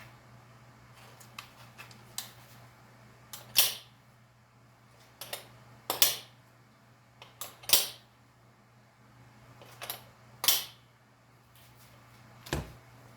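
Sharp clicks and clacks, one to two seconds apart, as the impact driver and its stainless-steel hook holder are handled, with a low steady hum underneath. The loudest clacks come about a third of the way in and near the middle; the last one near the end is duller.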